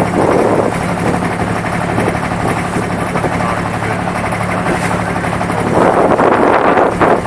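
Boat engine running with a steady low drone, under wind rushing on the microphone that grows louder about six seconds in.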